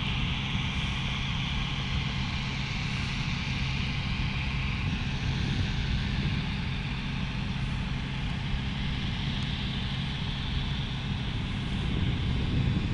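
Steady engine noise with a constant hiss, holding at one level without distinct events.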